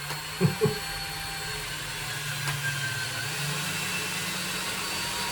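Power drill driving a wood screw through plaster toward the wooden lath behind it, the motor running steadily under load.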